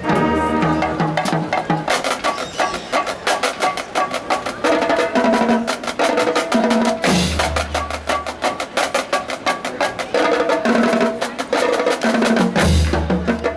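Marching band drumline playing a percussion feature: rapid snare and tenor drum strokes with sharp clicks. Deep bass drum hits come about seven seconds in and again near the end.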